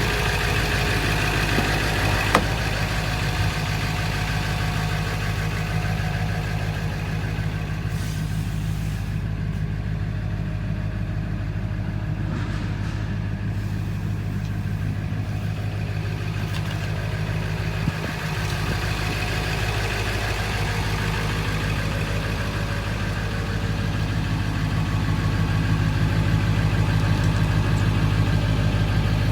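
Ford 7.3 L V8 turbo diesel engine idling steadily, with a single light click about two seconds in.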